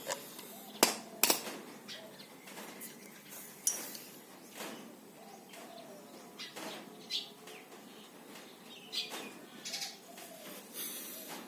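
Scattered sharp clicks and knocks of metal parts being handled and set down while a steel air tank and its valve are assembled, the loudest two about a second in.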